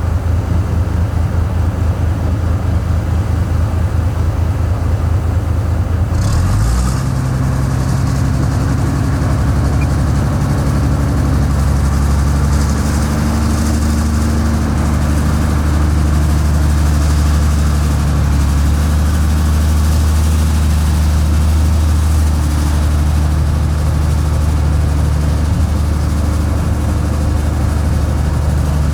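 Heavy diesel engine of earthmoving or haulage machinery running with a low, pulsing drone; about six seconds in its note shifts and it settles into a louder, steadier run, with a brief hiss at the change.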